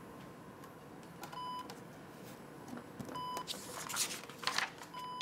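Bedside patient monitor beeping in a slow, steady rhythm: a short high beep about every two seconds, three in all, marking the patient's heartbeat. About three and a half seconds in, paper rustles as the pages of a form in a folder are handled.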